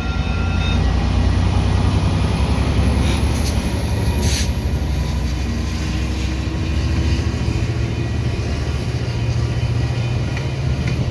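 EXO commuter train running close by, a loud steady low rumble of engine and wheels, with a short click about four seconds in.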